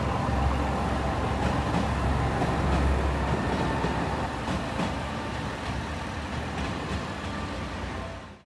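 Railway station ambience: a low rumble of electric trains moving through the station, strongest for the first few seconds and then easing into a steadier background noise. It cuts off suddenly at the very end.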